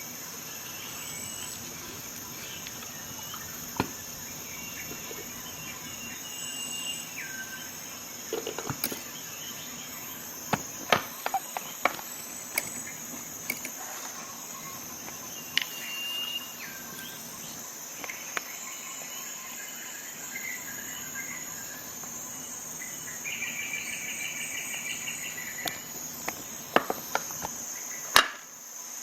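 Steady high insect chirring, with scattered sharp clicks and snaps of a Swiss Army knife's tools being handled, opened and shut. A short fast trill comes in about three-quarters of the way through.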